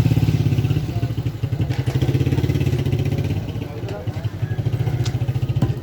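An engine running with a low, even pulsing, easing off a little past the middle and picking up again.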